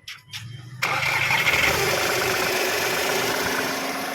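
Volkswagen Polo engine starting: a few short sounds, then it catches a little under a second in, runs up briefly and settles into a steady idle. This is the first start after the timing belt and water pump were replaced, run to check for oil and coolant leaks.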